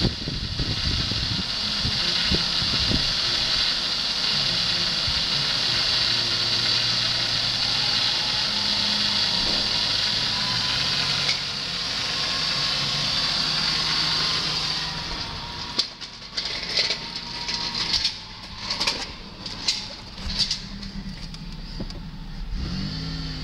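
Pontiac Bonneville's 3.8-litre V6 engine running steadily under a high hiss; about two-thirds of the way through the sound turns uneven, with short loud bursts. The 125,655-mile engine sounds good.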